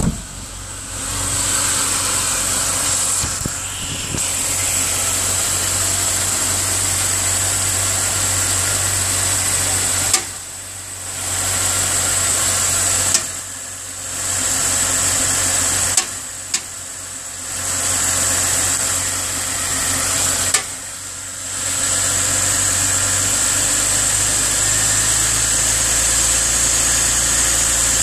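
2000 BMW 530i's 3.0-litre inline-six running on a cold start, with a strange knocking and rumbling from the engine. Four or five times a sharp click is followed by about a second of quieter sound, and a steady high whine runs under the engine.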